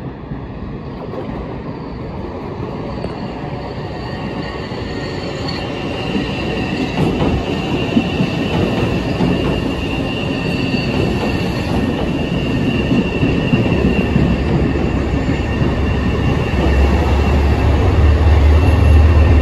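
Train wheels squealing on the rails as a train comes closer, the rumble growing steadily louder. A deep hum comes in and swells toward the end.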